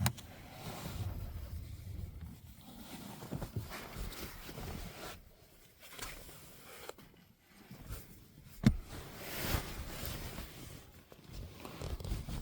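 Rustling and shuffling of a cloth sheet used as a window cover being handled, with one sharp click about eight and a half seconds in.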